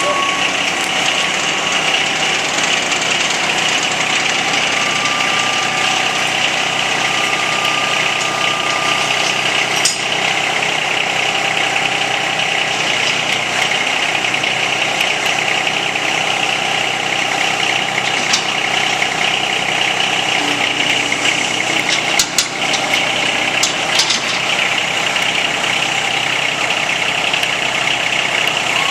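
John Deere tractor engine running steadily at idle, with a few short knocks about three quarters of the way through.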